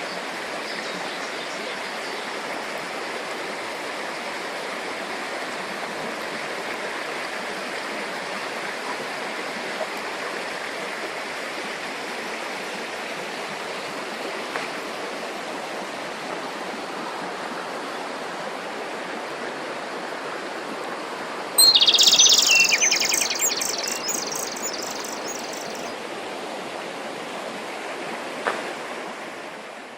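Steady rush of a flowing stream, with a bird breaking into loud, rapid chirping song for a few seconds about two-thirds of the way through. The water sound fades out at the very end.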